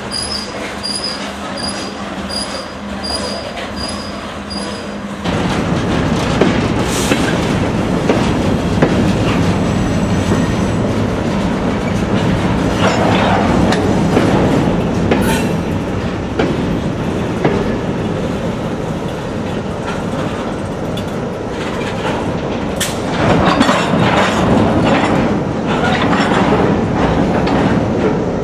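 Norfolk Southern freight cars rolling slowly past, wheels clattering and squealing on the rails. A crossing bell dings about twice a second until about five seconds in, when it stops and the rolling noise grows louder, with a few short high wheel squeals.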